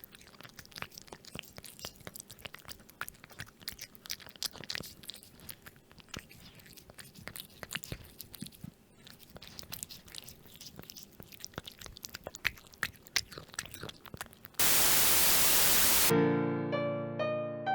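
A cat crunching and chewing food, with many irregular crisp crunches. Near the end comes a second and a half of loud static hiss, then piano music.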